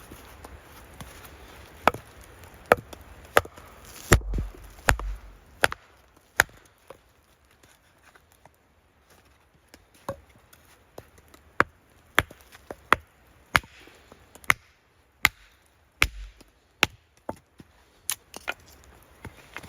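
Wood being chopped with a blade, sharp strikes about every three-quarters of a second in two runs with a pause of a few seconds between them. A few of the blows land with a heavier, deeper thud.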